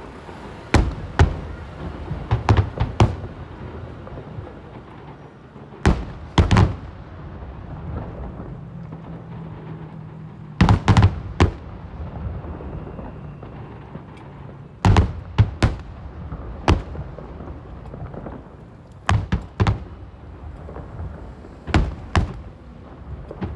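Fireworks shells bursting overhead: sharp booms in irregular volleys of one to three, each trailing a low rumbling echo, with lulls of a few seconds between volleys.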